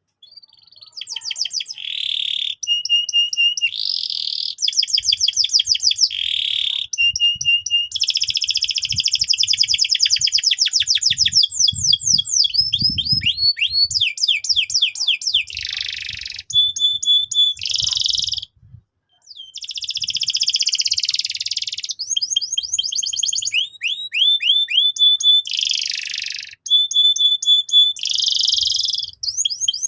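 Domestic canary singing vigorously: a long, loud song of rapid trills and rolls mixed with phrases of quickly repeated high notes, broken by a short pause a little past the middle.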